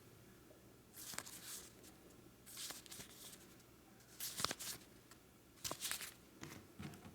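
Faint rustling and handling of paper user manuals, in about five short bursts with a few light clicks.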